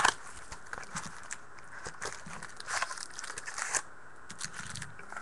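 Foil trading-card pack wrappers crinkling and tearing as packs are ripped open by hand, a dense run of sharp crackles that thins out after about four seconds.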